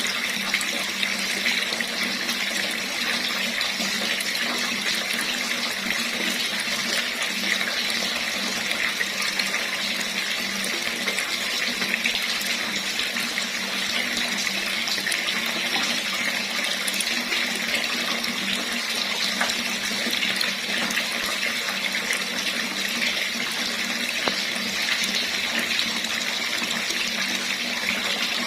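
Water running steadily from a tap, an even unbroken splashing stream.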